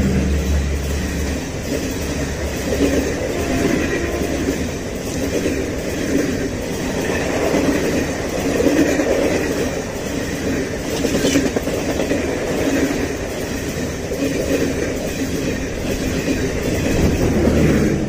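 Indian Railways express train passing at speed: its coaches run past on the track with a steady rumble and rattle of wheels on rail. A deep hum at the start fades out about a second and a half in.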